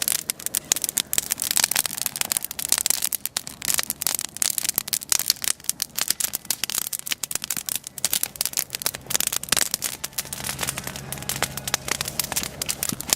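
Wood fire crackling and popping, a dense, continuous stream of sharp snaps as it burns.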